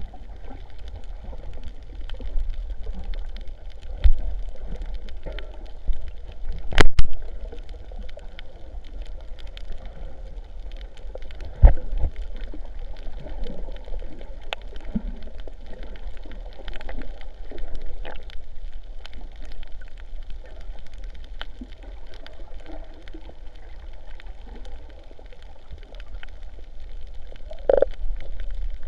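Muffled sea water gurgling and sloshing around the camera over a steady low rumble, with scattered small clicks and a few sharp knocks, the loudest about seven seconds in and another near twelve seconds.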